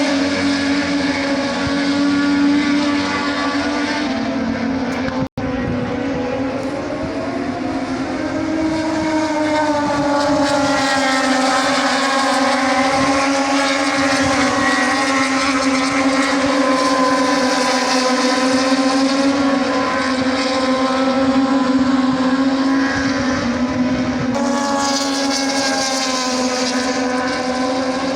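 A loud, steady engine drone holding nearly one pitch, wavering only slightly, with a brief dropout a little over five seconds in.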